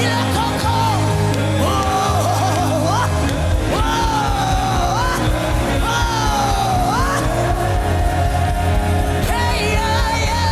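Gospel worship music: a solo voice singing long, bending, wordless vocal runs over a steady keyboard and bass backing, with three long sliding phrases in the first seven seconds and a lower, shorter line near the end.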